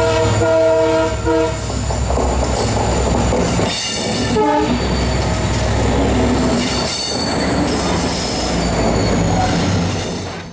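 Passenger train running along the track with a steady rumble; its horn sounds for about a second and a half at the start, and a shorter tone comes again about four seconds in.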